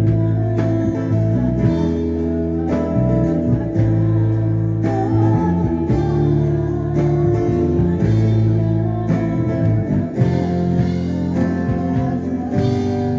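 Street buskers' live music: a strummed guitar over a steady bass line, with voices singing along.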